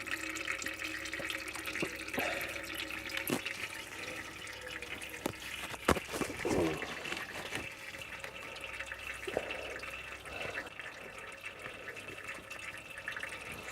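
Water-laden fluid running out of a 1600cc Toyota engine's sump into a container, a steady trickle and splash with scattered clicks and one sharp click about six seconds in. Water in the sump is what the owner takes as a sign that the head gasket might have failed.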